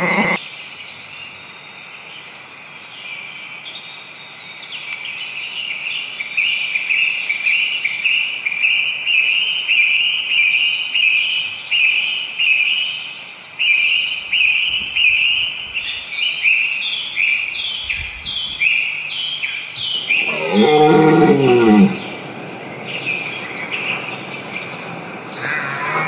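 A songbird repeating short, high notes over and over, about two a second, against an outdoor background. About twenty seconds in, a louder, lower animal call cuts across for a couple of seconds.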